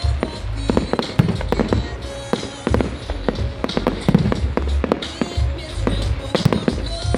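Fireworks going off in quick succession, sharp bangs and crackles with deep booms, over music.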